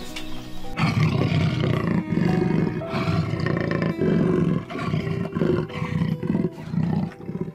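A big cat roaring in a run of short, deep pulses, about two a second.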